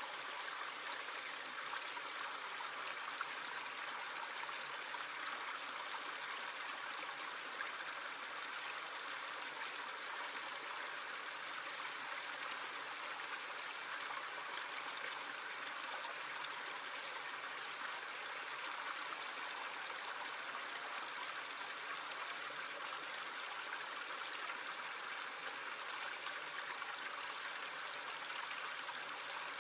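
Small stream running steadily, an even rushing of flowing water.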